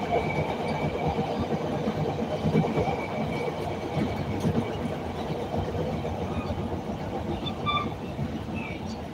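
CTA Red Line rapid-transit train running on elevated track, heard from inside the car as a steady rumble of wheels on rail.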